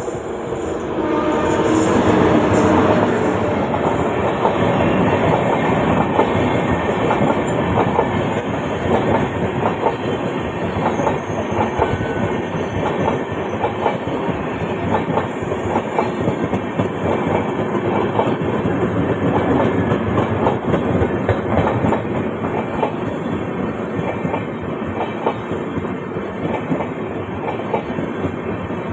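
A train passing through a station without stopping, its wheels clattering over the rail joints. The sound swells over the first two seconds, then stays loud and steady.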